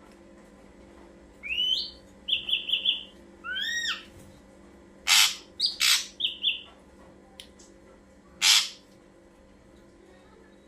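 Ashy drongo calling. A rising whistle comes about a second and a half in, then a quick run of four short notes and an upslurred note. Harsh rasping calls follow around the middle and once more later, with a few short notes between them.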